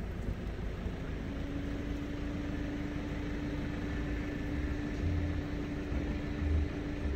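Car engine running, heard as a steady low rumble from inside the car, with a steady hum that comes in about a second in and holds.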